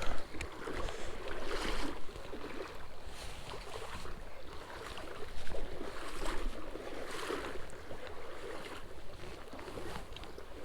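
Scuffing footsteps and brush rustling as someone clambers down a creek bank, coming in swells every second or two. Underneath is a steady wash of running creek water and wind rumble on the microphone.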